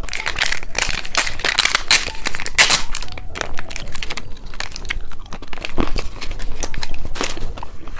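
Plastic wrapper of a two-colour cheese stick crinkling and tearing as it is unwrapped, in dense irregular crackles.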